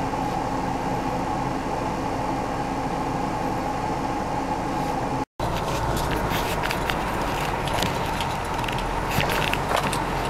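Off-road 4x4's engine running steadily, heard from inside the vehicle as it drives slowly along a dirt track. After a short break about halfway, the engine carries on with scattered clicks and knocks.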